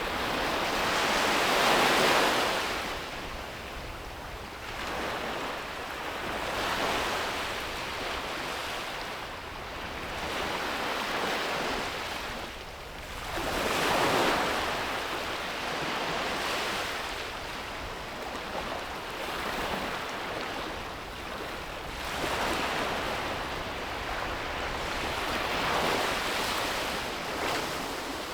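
Ocean waves breaking and washing up a beach, the surf swelling and easing every few seconds, with the two biggest breakers about two seconds in and halfway through.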